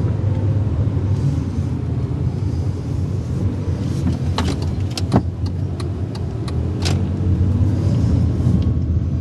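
Car driving, heard from inside the cabin: a steady low rumble, with a handful of sharp clicks between about four and seven seconds in.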